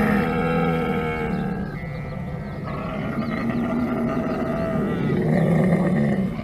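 Bovine lowing: two long, drawn-out calls, the second running about three seconds.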